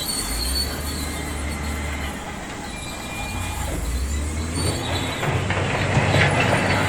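Heavy earthmoving machinery working: a diesel engine drones steadily under high metallic squeals. The sound grows louder past the middle, with clanks of metal near the end.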